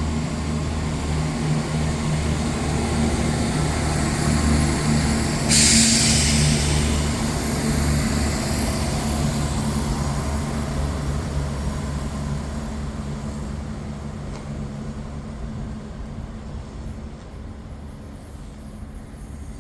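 A CrossCountry Class 170 Turbostar diesel multiple unit pulling away under power, its underfloor diesel engines running with a steady low drone that slowly fades as the train leaves. About five seconds in there is a loud burst of hissing lasting a second or two.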